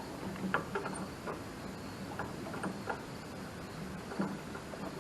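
Faint, irregular light clicks and taps of hand tools on metal, spaced out at uneven intervals.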